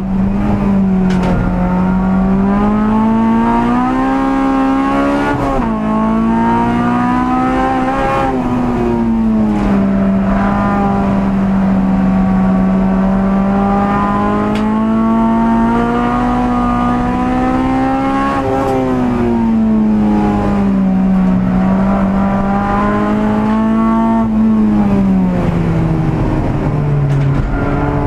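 Honda Civic EG6 race car's VTEC four-cylinder engine at racing revs, heard from inside the stripped cabin. The pitch climbs and drops through the gears, with quick upshifts about five and a half and eight seconds in, and falls through downshifts near the end.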